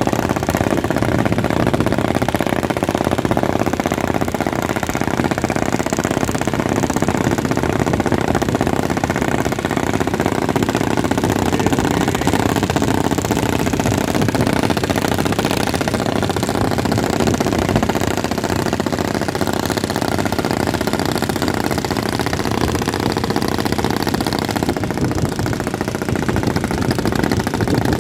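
Boat engine running steadily at close range, loud and unbroken, its even firing pulse filling the low and middle range.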